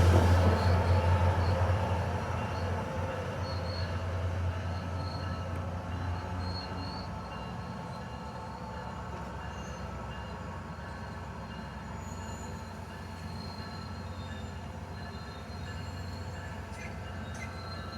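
SunRail diesel commuter train moving away, its low engine drone and rail noise fading over the first several seconds and then running on faintly, with faint thin squeals of the wheels on the rails.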